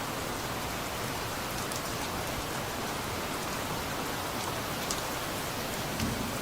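Steady rain falling, with scattered louder drops ticking now and then and a soft thud near the end.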